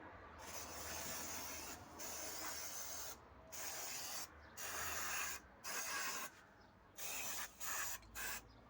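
About eight short bursts of pressurised spray hissing, each lasting from a fraction of a second to over a second, with brief gaps between them.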